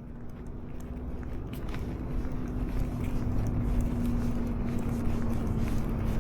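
Outdoor street ambience on a walk: a steady low rumble with a constant hum and scattered light footstep clicks, fading in over the first two seconds.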